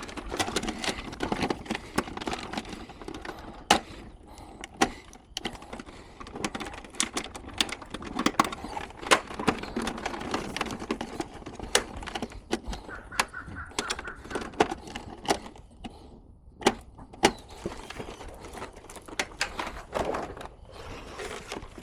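Irregular clicks, knocks and clatters of hard plastic and metal parts being handled while an air conditioner is taken apart, with a few sharper knocks standing out.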